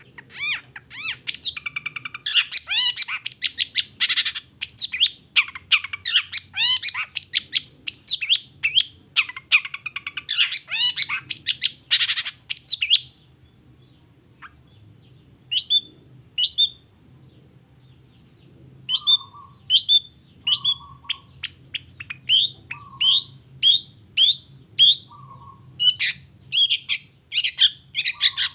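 Long-tailed shrike (cendet) singing: a dense run of rapid high notes for about the first thirteen seconds, then a short pause, then separate sharp calls about once a second.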